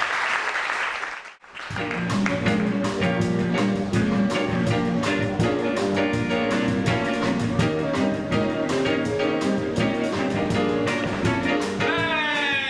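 Audience applauding for about a second, cut off abruptly, then a live band playing an upbeat instrumental with guitar and a steady drum beat.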